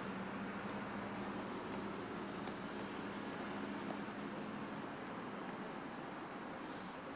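Insects chirping in a steady, rapidly pulsing high-pitched trill, over a faint steady low hum.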